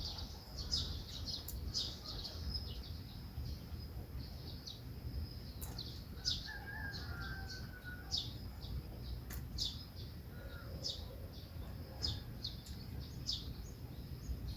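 Small songbirds chirping: many short, high chirps, one or two a second, with a few lower whistled notes about six to eight seconds in, over a low steady background rumble.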